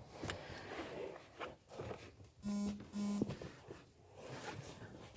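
Two short, buzzy electronic beeps a little over half a second apart, amid soft rustling and handling clicks.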